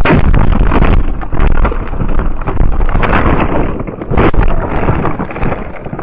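Loud rushing wind and road noise buffeting a car's dashcam microphone, with several sharp knocks. The noise eases somewhat about a second in and swells again around four seconds.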